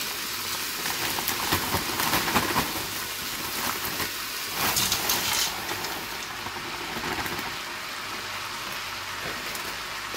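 Diced vegetables poured from a plastic bag into a pot of potatoes frying: a steady sizzling hiss with a crackling patter of pieces falling in and the bag rustling, loudest about five seconds in, then the sizzle settles to an even hiss.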